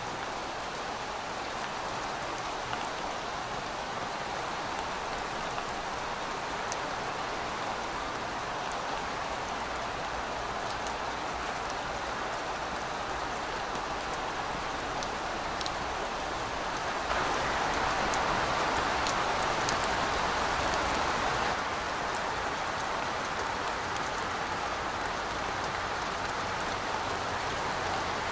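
Steady rain falling: a dense, even hiss with scattered individual drops ticking through it. Past the middle it turns louder for about four seconds, then eases back.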